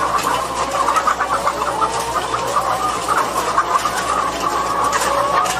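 A large flock of chickens clucking and calling at once, a dense continuous din of overlapping calls, over a steady low hum.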